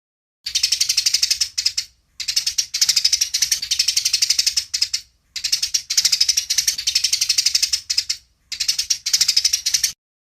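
Eurasian tree sparrow giving fast, harsh chattering calls, the excited fighting chatter used for song training. There are four runs of rapid chirps, each one to three seconds long, with brief pauses between them.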